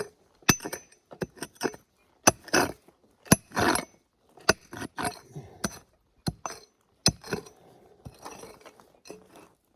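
Prospecting pick digging carefully into stony ground: an irregular run of sharp metallic clinks against rock, with a few longer scrapes through the dirt.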